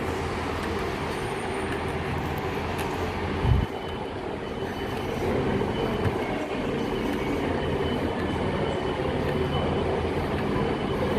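Class 158 diesel multiple unit's underfloor diesel engines running steadily at the platform, a low hum, with a single low thump about three and a half seconds in.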